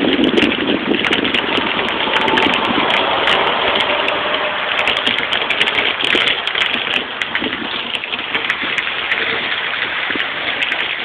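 Heavy rain falling, with water gushing from a roof scupper and splashing down the wall. It is a steady, dense hiss and splatter, easing slightly in the second half.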